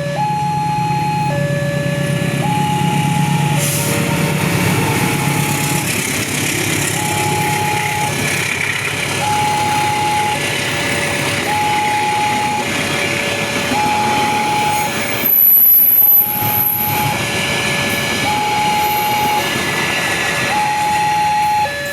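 Railway level-crossing warning alarm sounding, a two-tone signal switching between a high and a low pitch about once a second, over steady traffic noise. About three-quarters of the way in, a loud burst of noise with a high whistle lasts a second or so.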